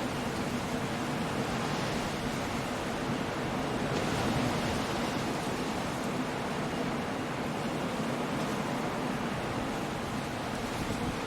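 Coastal storm: surf and wind merging into a steady, even rushing noise that swells slightly about four seconds in.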